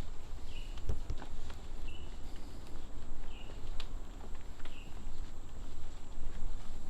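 A bird giving a short, high call four times, about once every second and a half, then falling silent. Underneath runs a steady low rumble, with a couple of soft knocks about a second in.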